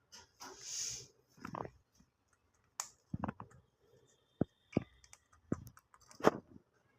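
Irregular sharp clicks and taps, about a dozen, with a short hiss near the start.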